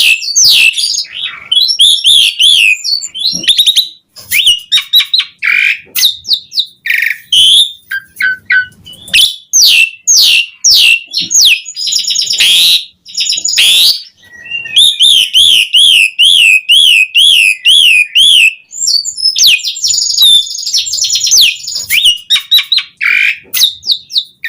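Asian pied starling singing vigorously and without pause: a varied stream of whistles, sharp clicks and fast downward-sweeping notes. About fifteen seconds in comes a rapid wavering trill lasting some three seconds.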